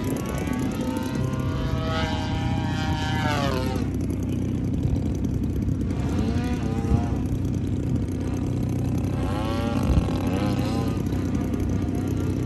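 Large RC model airplane's engine passing by several times, its pitch sweeping down as it goes past and arching up and down on the turns, over a steady low rumble.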